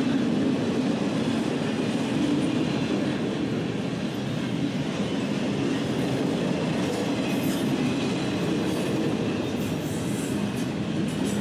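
Norfolk Southern freight train rolling past: a steady rumble of wheels on rail with clickety-clack, and faint high wheel squeals in the second half.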